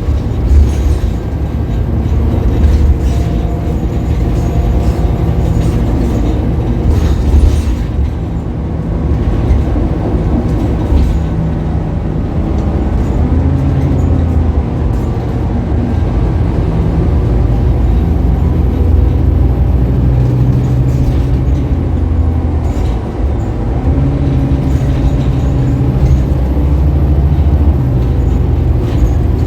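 Scania K280UB bus's diesel engine running under way, its note rising and falling as the bus pulls away and slows, with the drone of the drive and occasional short rattles and knocks.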